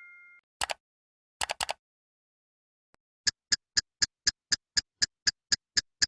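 The ringing tail of a bell-like ding fades out, followed by a single click and a quick cluster of three clicks. About three seconds in, an even run of sharp ticks starts at about four a second, like a clock or countdown timer ticking.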